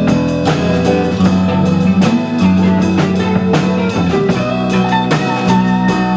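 A live rock band playing: a drum kit keeps a steady beat, about two hits a second, under sustained electric guitar notes.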